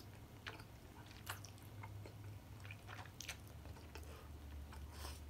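Someone chewing a mouthful of butter chicken close to the microphone: faint, scattered mouth clicks and smacks about once a second.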